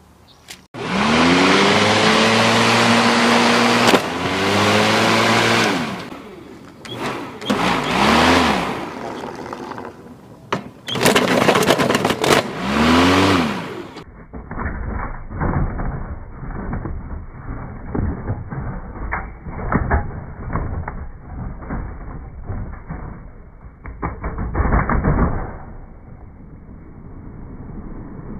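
Lawnmower engine revving up and back down four times. Then, after a cut, a muffled, lower-quality recording of a running mower with irregular clattering and crackling.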